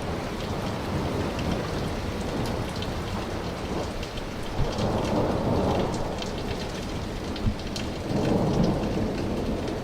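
Steady rain falling with thunder rumbling overhead. The rumble swells about five seconds in and again near the end.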